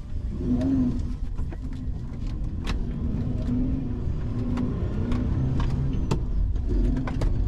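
Car engine running, a low rumble with a humming note that comes and goes, with scattered sharp clicks and knocks throughout; the car is a Hyundai Genesis Coupe with the 3.8 V6.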